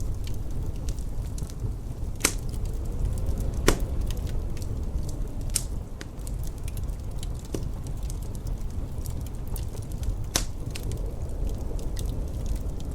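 Wood fire crackling, with many small ticks and a few sharp pops, over a steady low wind rumble.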